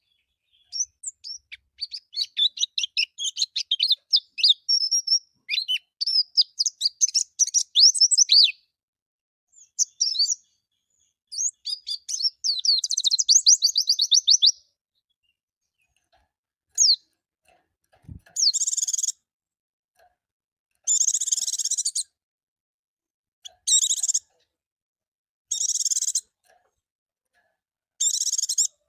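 White-eye (pleci) singing: a rapid run of high twittering notes for about eight seconds, a fast trill a little later, then short raspy buzzing calls repeated about every two seconds.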